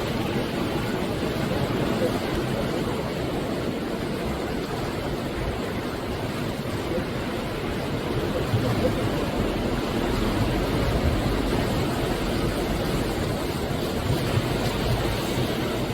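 Sea waves breaking on the shore in continuous, heavy surf, swelling a little louder about halfway through.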